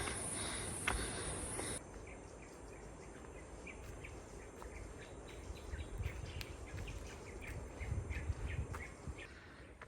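Outdoor ambience of birds chirping in many short, repeated calls, with low gusts of wind rumbling on the microphone. The first two seconds hold a louder steady high hiss that cuts off abruptly.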